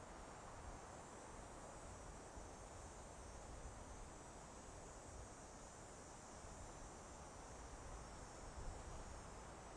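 Soft, steady wind in a forest: a faint, even rushing of air with no gusts or breaks.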